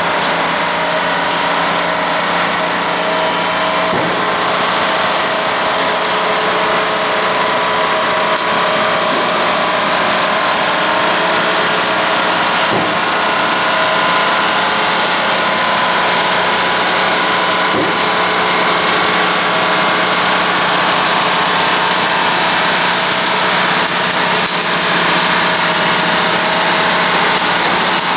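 Railroad flatcars loaded with steel rail racks rolling slowly past, a steady mechanical clanking and rattling of wheels and rack steel with a few sharp knocks.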